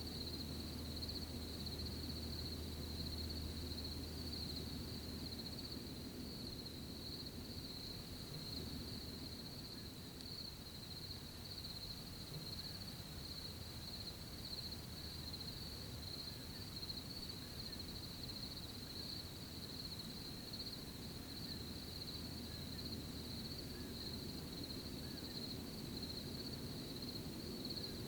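Crickets chirping in a steady, unbroken chorus over a low, even rustle of night ambience.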